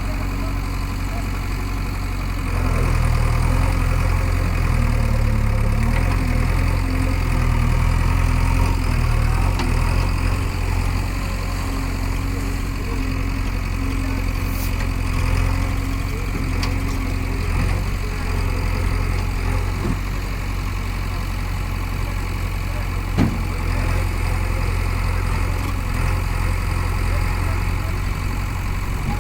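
Heavy diesel engine running steadily, working harder for several seconds early on with its note shifting under load, then settling back. A single sharp knock about two-thirds of the way through.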